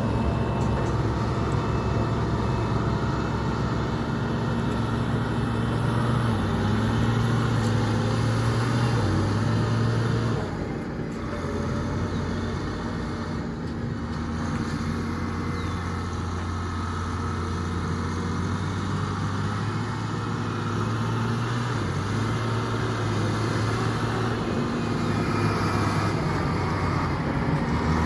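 Volvo A25 articulated dump truck's six-cylinder diesel engine running steadily, its engine speed stepping up and down a few times.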